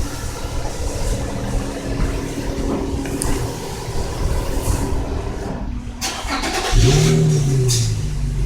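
Car engine running at idle; near the end it rises sharply in pitch, then drops back and settles into a steady idle.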